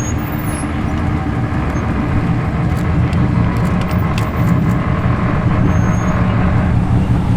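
Chevrolet Impala convertible with a chopped roof, its engine running low and steady as it drives slowly past.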